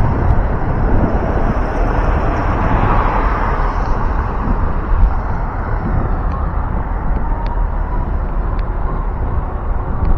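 Wind rumbling on the microphone of a moving e-bike, with street traffic around it; a vehicle goes by about three seconds in, its noise swelling and then falling away.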